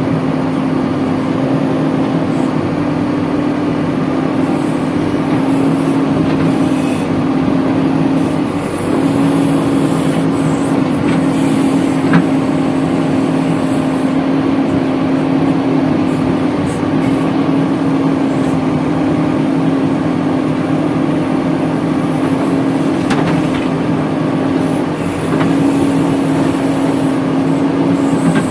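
JCB 3DX backhoe loader's diesel engine running steadily at high revs while digging and loading, with a strong even drone that dips briefly under load twice.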